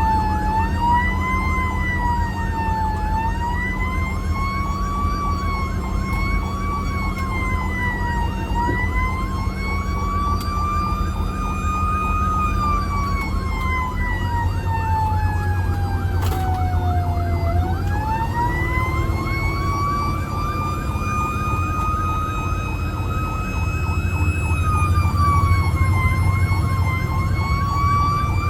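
Fire engine siren wailing, its pitch rising and falling slowly and unevenly, with one long fall about seventeen seconds in and a climb back up. A steady low engine drone runs underneath.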